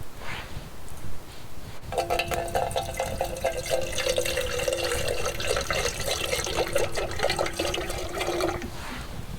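Water pouring steadily into a container, starting about two seconds in and stopping shortly before the end.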